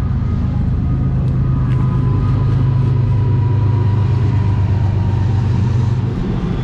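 Steady low rumble of a motor vehicle running, with a faint high tone over it, that eases off about six seconds in.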